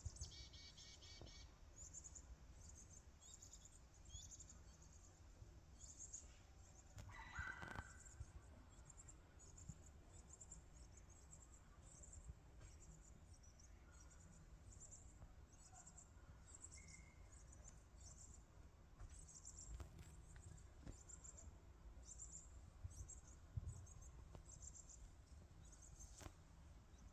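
Faint birdsong: short, high-pitched chirps repeating throughout, with a lower, fuller call about seven seconds in, over a low background rumble.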